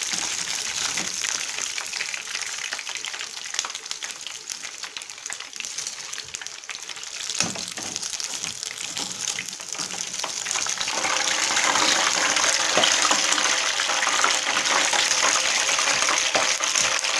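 Nems (spring rolls) deep-frying in hot oil: a steady crackling sizzle that grows louder and denser about ten seconds in. This is the first frying, with the rolls left pale for a second fry later.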